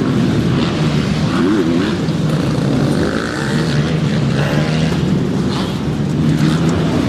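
Motocross motorcycle engines running as a steady drone, with a few brief rises and falls in pitch as the throttle changes.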